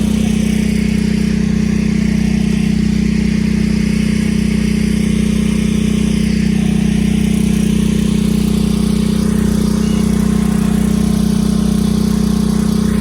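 An engine running steadily at one unchanging speed: a constant, loud low drone with no revving.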